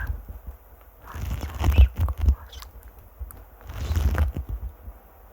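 Close-miked ASMR trigger sounds right at the microphone: two rustling, crackly bursts with a deep rumble and small clicks, about a second in and again near four seconds.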